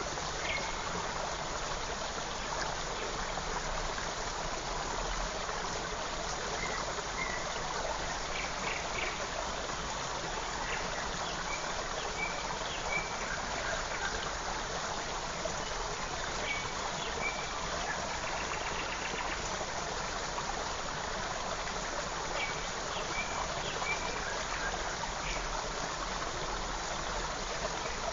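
A forest stream running steadily, with birds chirping over it in short, scattered groups of high notes.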